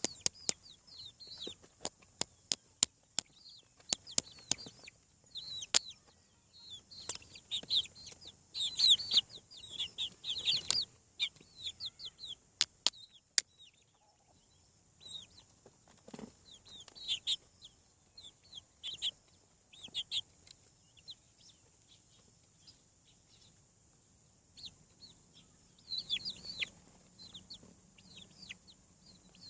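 Young chickens, about seven weeks old, peeping and clucking: many short, high, downward chirps, busiest in the first half and again near the end. A run of sharp clicks sounds among them in the first half.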